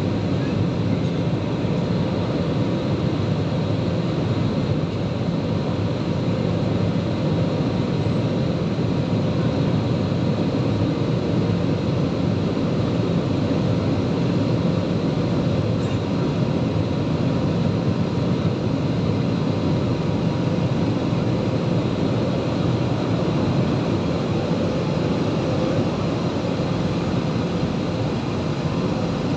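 Jet airliner cabin noise in flight: a steady, even drone of engines and rushing air with a few faint steady tones, unchanging throughout.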